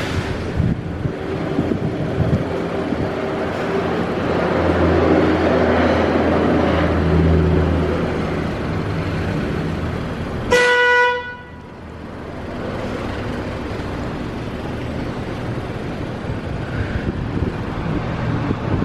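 A car horn honks once, briefly, about ten seconds in, over a steady background of running vehicle and machinery noise.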